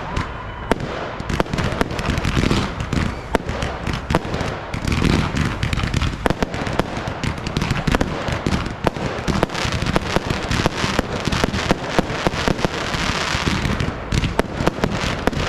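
Fireworks display: a dense, unbroken run of sharp bangs from bursting shells, several a second.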